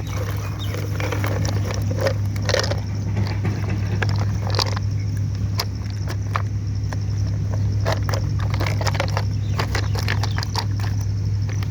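An engine running steadily with a low, even drone, with scattered clicks and knocks over it.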